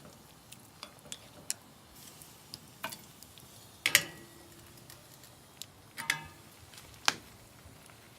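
Utensils clinking against a metal cooking pot: a dozen or so sharp clinks. The loudest comes about four seconds in with a brief metallic ring, and another ringing clink follows about two seconds later.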